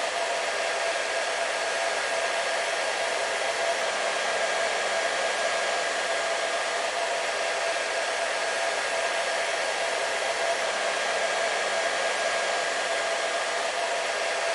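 Hair dryer running steadily: an even rushing blow with a constant motor hum, unchanging throughout.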